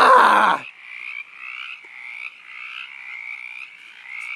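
A chorus of frogs croaking, short calls repeating about three times a second. At the start a louder, lower pulsing call cuts off just over half a second in.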